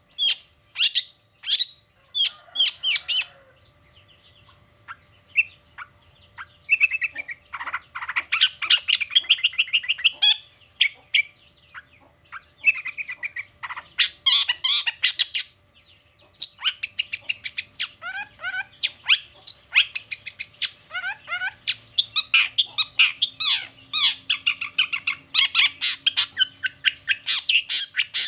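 Long-tailed shrike (cendet) singing: bursts of rapid, sharp chattering notes and trills with short pauses between phrases.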